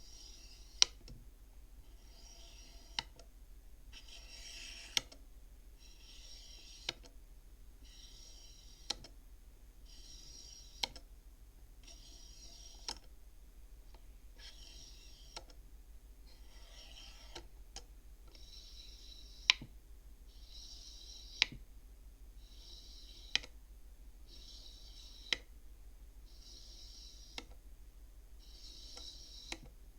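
Beads of a wooden bead counting frame slid along their rod one at a time: each bead gives a short sliding hiss, then a sharp click as it knocks against the others, about every two seconds.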